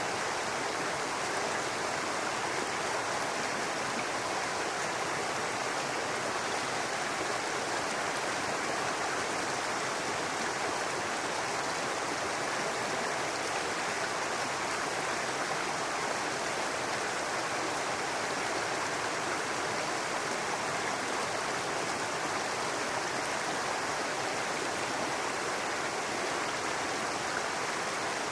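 Small brook babbling over stones, a steady rush of running water with no change.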